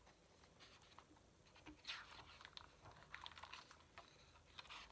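Near silence: room tone with a few faint, soft clicks and a light rustle about two seconds in.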